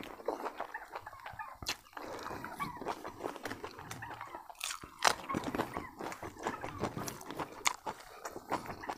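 A person chewing a mouthful of duck biryani eaten by hand, with lip-smacking: a string of short, irregular wet clicks close to the microphone.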